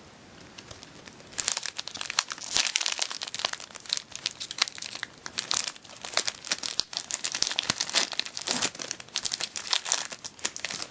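Foil wrapper of a Pokémon TCG booster pack being torn open and crinkled, with rapid crackling that starts about a second and a half in and runs on in uneven bursts.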